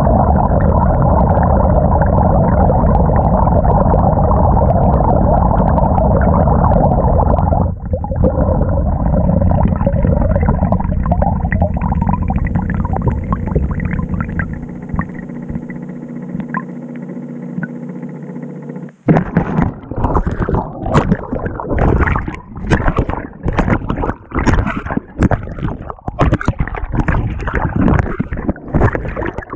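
Water in the drum of a GE top-load washing machine, heard from a camera mounted on the agitator. A steady rushing churn eases and grows quieter after about eight seconds. About two-thirds of the way in it breaks abruptly into irregular splashing and sloshing as the agitator swings the load through the water.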